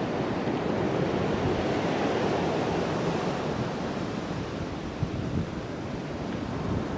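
Steady rush of sea surf breaking on the beach, with wind buffeting the microphone.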